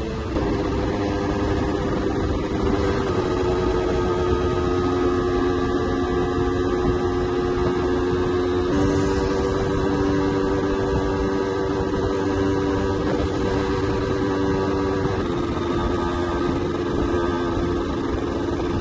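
Yamaha 125ZR's two-stroke single-cylinder engine running at steady high revs under way, its pitch shifting in small steps a few times, over a constant rush of wind and road noise.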